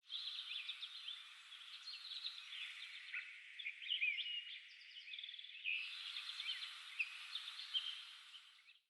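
A chorus of many birds chirping and whistling at once: a dense mix of short overlapping calls over a steady hiss. The background changes abruptly a little over halfway through, and the sound fades out at the end.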